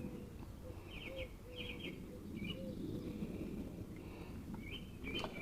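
Faint garden birdsong: small birds giving short chirping trills, with a dove's low, soft cooing repeated several times.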